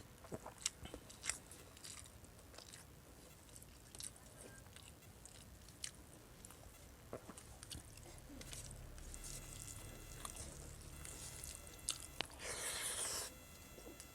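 Close-miked mouth sounds of a person eating paksiw na bangus (milkfish stewed in vinegar): chewing and biting with many small wet clicks. Near the end a louder hissing sound lasts about a second.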